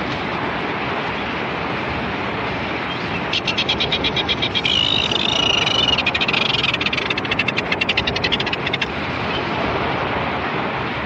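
Red-billed tropicbird giving a shrill, fast rattling call, starting about three seconds in and lasting about five seconds, over a steady rushing background noise.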